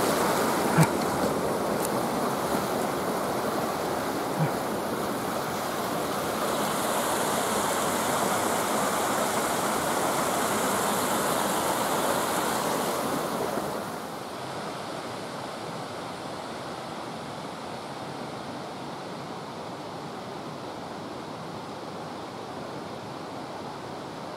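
Steady rain falling, a continuous hiss that drops noticeably quieter about halfway through.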